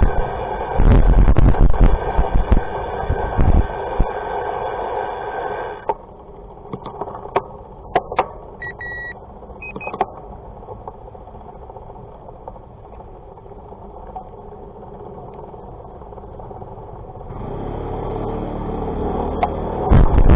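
A vehicle engine running with steady noise, which cuts off suddenly about six seconds in. Then come a few clicks and two short electronic beeps, and the engine noise builds again near the end.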